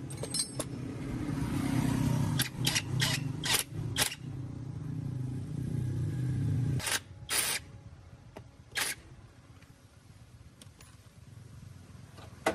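A motor running with a steady low hum that builds up, then cuts off suddenly about seven seconds in, with a series of sharp knocks or clicks while it runs and a few more after it stops.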